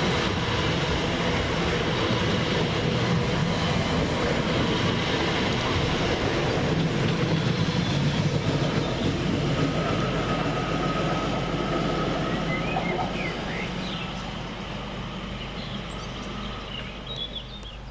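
A TfL Rail Class 345 electric multiple unit pulling out of the station with a steady rumble of wheels and running gear. A thin whine joins about ten seconds in, and the train noise fades over the last few seconds as it draws away.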